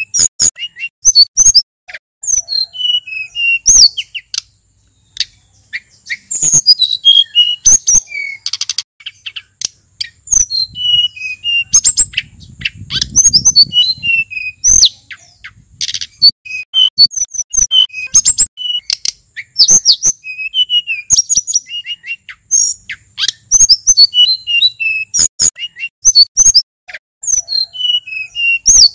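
Male sulingan gunung songbird singing: fast, repeated phrases of high whistled notes that mostly slide down in pitch, broken by sharp chips.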